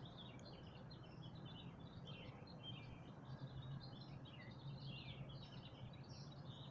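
Many small birds chirping and calling faintly, a dense, overlapping dawn chorus of short high chirps, over a low steady hum.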